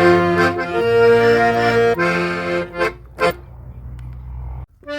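Accordion playing a hymn tune in held chords, then two short detached chords about three seconds in, followed by a quieter low held note that cuts off suddenly near the end.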